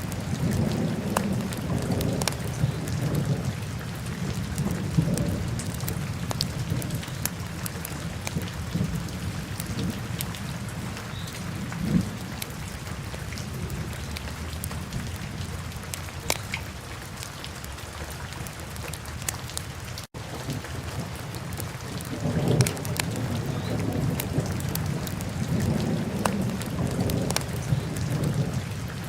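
Wood fire burning in a fireplace: a steady low roar of flames with irregular sharp crackles and pops. The sound drops out for an instant about two-thirds of the way through.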